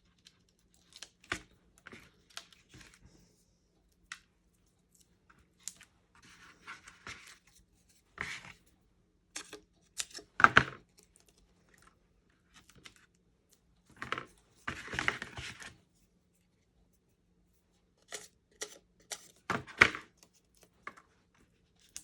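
Foam adhesive dimensionals being peeled from their backing sheet while paper card pieces are handled: a scatter of small clicks and taps with several short rasping peels, the loudest about halfway through and again near the end.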